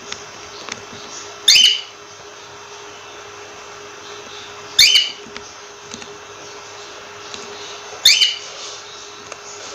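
Cockatiel giving a short, loud whistled call three times, about every three seconds, over a faint steady hum.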